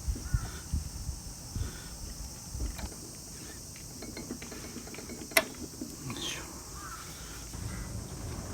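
Crows cawing, with scattered low knocks and one sharp click a little past halfway.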